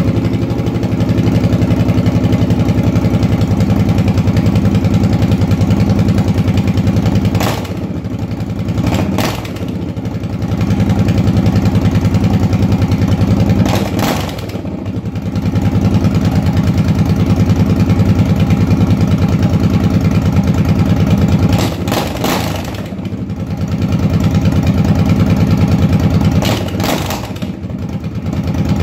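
Suzuki Boulevard cruiser's V-twin engine running through straight pipes with no mufflers, just started and idling loudly with a rapid, even pulse. Its level drops briefly about four times, near 8, 14, 22 and 27 seconds in.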